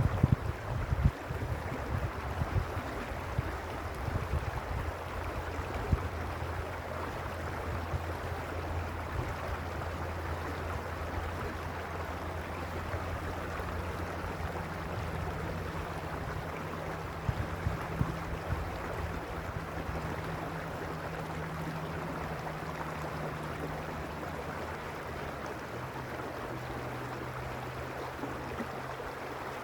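A stream flowing, a steady rushing of water. A low steady hum runs underneath and changes pitch a couple of times. Gusts of wind rumble on the microphone in the first second or two.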